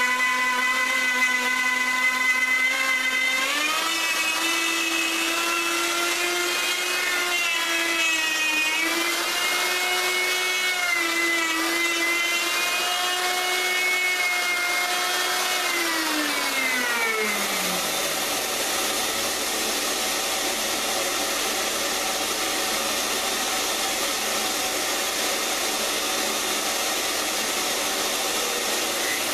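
Electric router running with a high whine that wavers in pitch as it cuts, stepping up a few seconds in. About sixteen seconds in it is switched off and winds down to a stop, leaving a steady rushing noise. Right at the end a motor spins up again.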